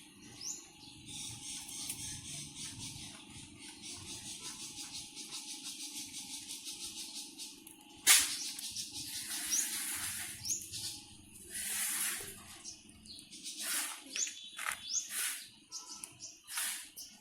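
Birds chirping in short high rising notes over a steady, fast-pulsing high hiss for the first several seconds. About eight seconds in there is a sharp loud click, followed by irregular bursts of rustling noise.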